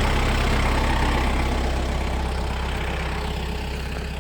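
A vehicle engine running steadily with a low hum, slowly growing fainter over the few seconds.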